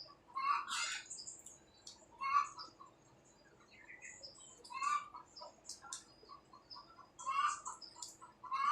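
Birds calling: short chirping calls repeated every couple of seconds.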